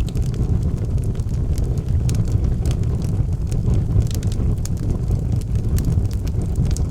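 Wood fire burning in a fireplace: a steady low rumble of flames with irregular crackles and pops from the burning logs.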